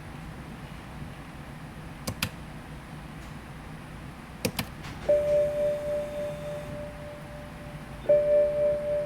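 Two pairs of sharp clicks, then an electronic gong-like chime about five seconds in that rings and fades, sounded again about three seconds later: a BMW E93 M3's in-cabin warning chime.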